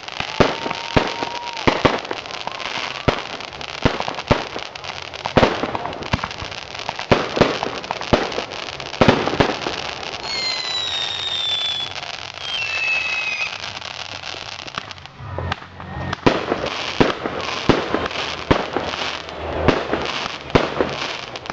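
Fireworks going off: a rapid, irregular run of bangs and crackles, with several high whistles gliding up and down in pitch around the middle.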